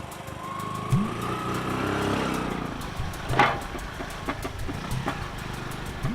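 A motor vehicle's engine pulling away about a second in, its pitch rising as it speeds up and then fading, with a brief sharp noise about halfway through.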